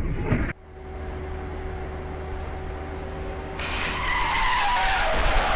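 A steady car hum, then from about three and a half seconds in car tyres squealing in a long wavering skid.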